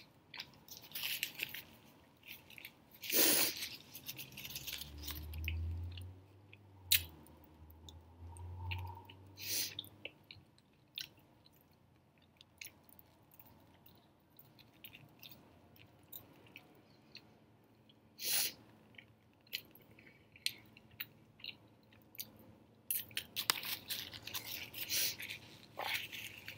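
Mouth sounds of biting and chewing a soft raisin bagel sandwich with beef sausage and cream cheese, in scattered bursts with quiet gaps. A paper napkin rustles at the mouth near the end.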